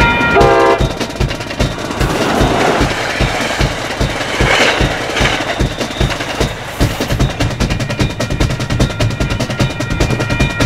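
Commuter train's horn cutting off just after the start, then the train's coaches rushing past close by, loudest about four to five seconds in and fading away by about seven seconds. A steady drum beat runs underneath.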